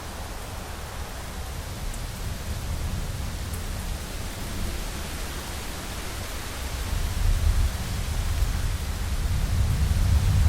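Heavy rain falling steadily against a window, with a low rumble of thunder building toward the end.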